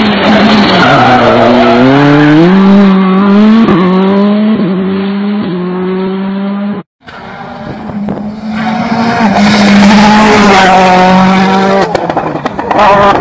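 Citroën rally car's engine at full throttle, its pitch climbing and dropping back with each of several quick upshifts. The sound cuts off abruptly about halfway through, then the engine comes back at high, fairly steady revs and turns choppy near the end.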